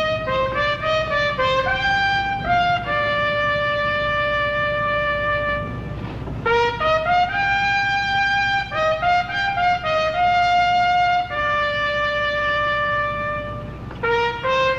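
A solo trumpet plays a melody of held and stepping notes, one note at a time, with a short break about six seconds in and another near the end.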